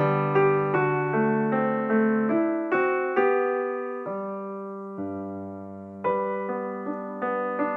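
Background music: a gentle piano melody over sustained chords, notes struck and fading away.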